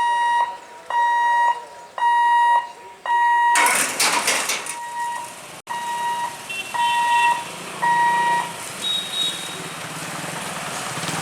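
Level-crossing gate warning alarm beeping about once a second, each beep a steady high tone lasting about half a second. A loud rush of noise breaks in about three and a half seconds in, and the beeping stops a little past the middle.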